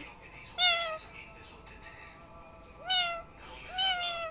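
Cat meowing: three short meows, each rising then falling in pitch, the second two close together near the end.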